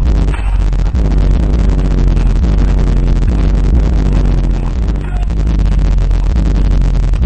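Hip-hop played loud through a car stereo, dominated by deep, heavy bass from a Kicker L7 12-inch subwoofer in a ported enclosure tuned to 34 Hz, driven by an MTX 81000d amplifier.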